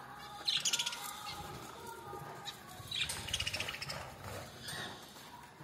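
Pet birds chirping in two short rapid bursts, about half a second in and again about three seconds in.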